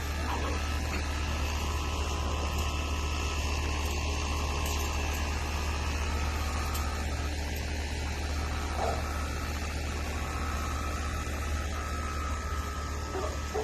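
Steady low hum under a constant hiss of background noise, with a brief faint high sound about nine seconds in and another near the end.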